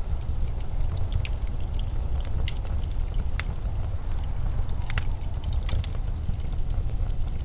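Low, steady rumble of blizzard wind, with scattered sharp crackles over it.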